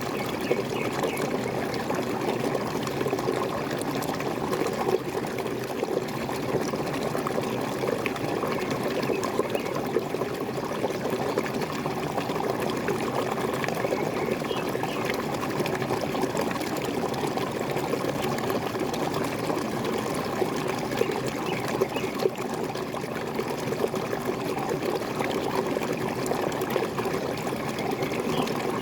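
Small waterfall splashing and gurgling steadily, a dense, even rush of falling water.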